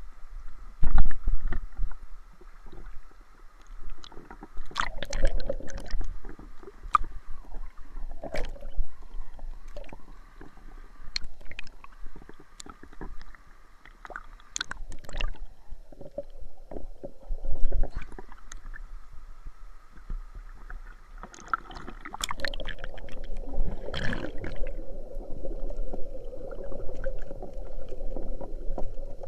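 Water sloshing and gurgling close to the microphone, with scattered sharp knocks and bumps, over a faint steady hum.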